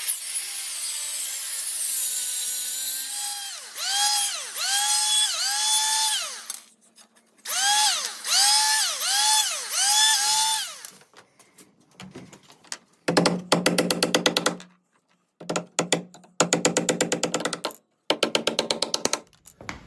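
Power drill working into wood: a steady whir, then repeated motor whines that dip in pitch under load and recover, about five at a time, followed by three bursts of fast, even clicking.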